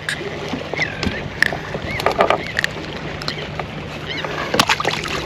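Scattered clicks and knocks of fishing tackle and a just-caught hardhead catfish being handled aboard a small fishing boat, over a steady low hum, with a few short high chirps.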